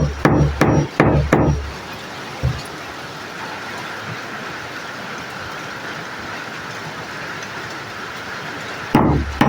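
A hammer tapping metal fastenings to set a name tag on a dog collar: about five quick taps, one more a second later, then a pause with only a steady hiss before rapid tapping starts again near the end.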